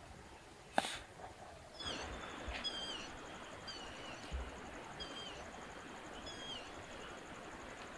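A bird calling over and over with short high notes that slide down, about one a second, over a steady high insect buzz. A single sharp click about a second in.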